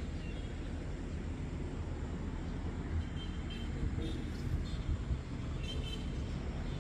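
Outdoor ambience: a steady low rumble, with a few faint short high chirps around the middle and near the end.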